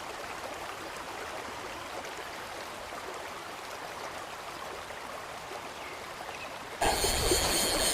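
Steady rushing of a flowing river. Nearly seven seconds in, a louder noise starts suddenly and takes over.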